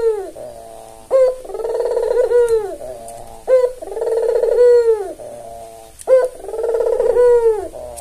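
White albino Barbary dove (puter) cooing in a repeated phrase about every two and a half seconds: a short sharp note, then a longer rolling coo that falls away at the end.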